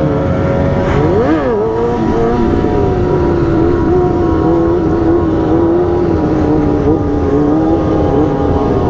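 Motorcycle engine running at a steady pitch, with one brief rise and fall in pitch about a second and a half in.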